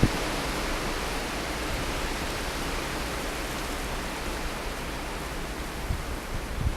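Steady hiss of blizzard wind, with a low rumble of wind on the microphone and a few short buffeting thumps near the end.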